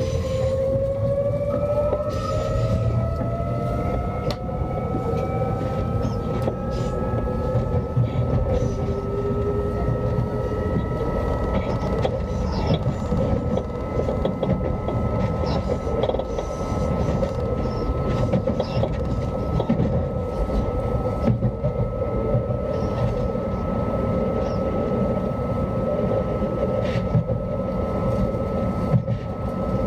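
Alstom Régiolis train heard from inside the passenger cabin, under way: its traction whines rise in pitch over the first several seconds as it gathers speed, then settle into a steady whine over the constant rumble of wheels on rail, with scattered clicks.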